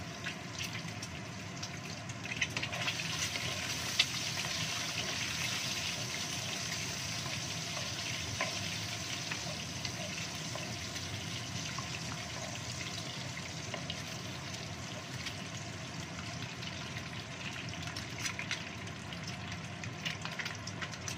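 Boiled quail eggs sizzling in hot oil in a wok, with scattered spattering pops, two of them louder a few seconds in. A wooden spatula stirs the eggs around the middle.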